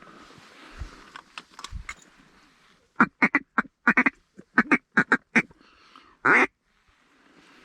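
Hand-blown duck call sounding a string of about ten short, loud quacks, then one longer drawn-out quack, calling to a bird that is circling overhead.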